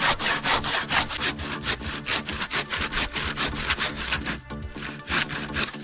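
Hand saw cutting through wood in quick, even back-and-forth strokes, about four a second, breaking off about four seconds in for a few last strokes. Background music plays under it.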